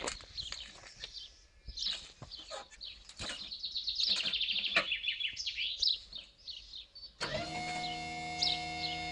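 Birds chirping and trilling. About seven seconds in, a loud, steady sound made of several held tones starts over them.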